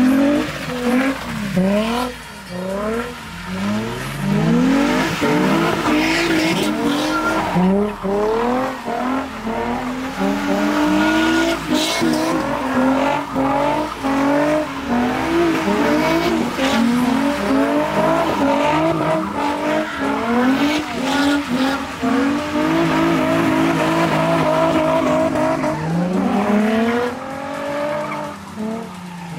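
Drift cars, a Nissan 350Z's 3.5-litre V6 among them, doing donuts on wet asphalt: the engines rev up and fall back over and over, with tyres skidding on the wet surface.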